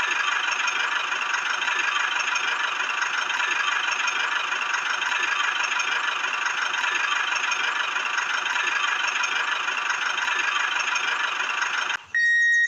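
A small motor running steadily with a fast, even rattle. It cuts off abruptly near the end.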